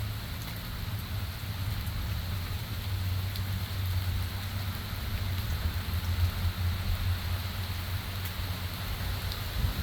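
Steady rain falling, an even hiss with a few faint drop ticks, over a constant low rumble.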